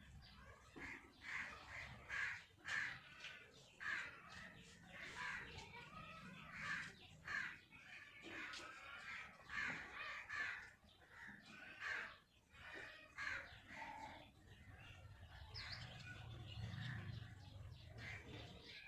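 Birds calling over and over, roughly one call a second, with the calls thinning out in the last few seconds.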